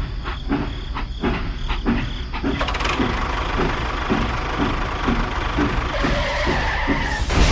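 Small engine of a mini tractor running with a rhythmic knock, about two to three beats a second. A hissing, scraping noise joins about three seconds in.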